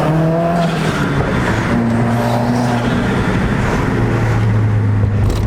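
A car engine running hard at high revs, its note shifting as it goes, under a loud rush of exhaust and road noise.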